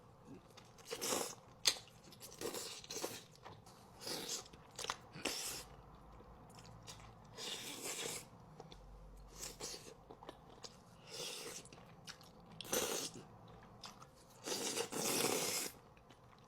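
Close-miked eating of Buldak spicy noodles and giant rice cakes: irregular bursts of chewing and biting with a few sharp mouth clicks, louder chewing near the end.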